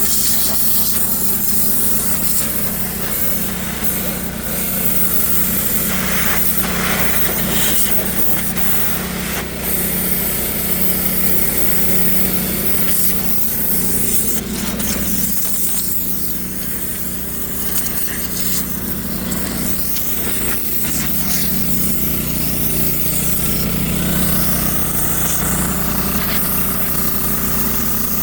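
Pressure washer running steadily with its hum underneath, while the high-pressure spray hisses against metal, the hiss changing and briefly easing as the wand moves and the trigger is worked.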